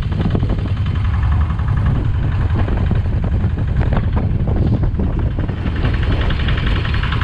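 A small fishing boat's engine running steadily with a continuous low drone.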